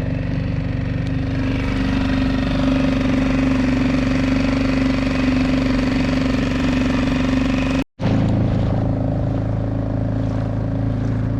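Dinghy outboard motor running steadily under way. The sound cuts out abruptly for a moment about eight seconds in, then carries on.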